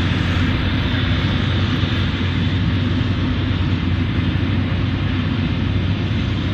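Claas Jaguar 980 forage harvester running steadily while chopping maize: a loud, even drone from its V12 diesel engine with the rush of the chopping drum and crop flow.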